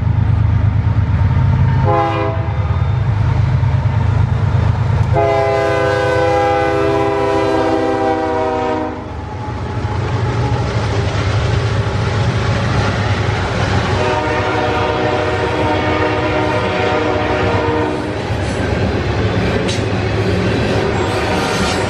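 Diesel freight train passing with its locomotive horn sounding: a short blast about two seconds in, a long blast from about five to nine seconds, and another long blast from about fourteen to eighteen seconds. A steady low engine drone runs underneath, joined by the rolling noise of the cars in the second half.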